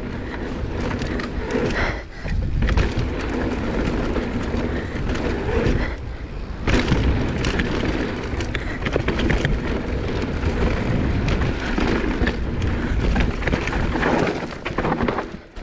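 Mountain bike riding down a dirt bike-park trail: tyres rolling and scrabbling over dirt and rocks, the bike rattling, and wind rushing on the microphone. The noise drops briefly about two seconds in and again about six seconds in.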